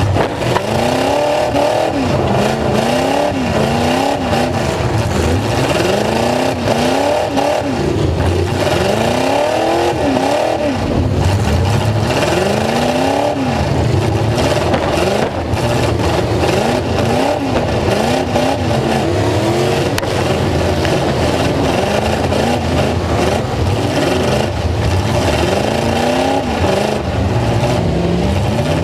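Full-size truck engine revving hard, its pitch climbing and falling over and over as the throttle is worked, loud throughout.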